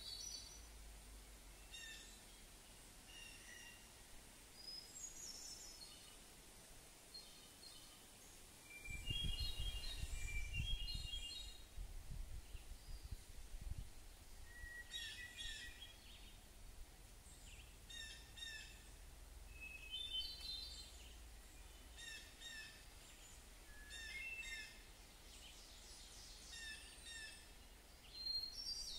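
Birds chirping and singing faintly in short, repeated phrases, with a low rumble for a few seconds about nine seconds in.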